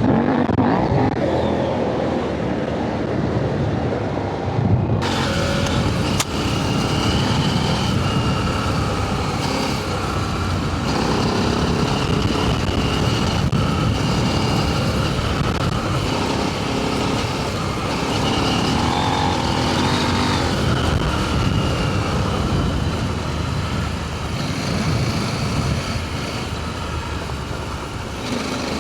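Adventure motorcycle engine running under way, its revs rising and falling, with wind and tyre noise.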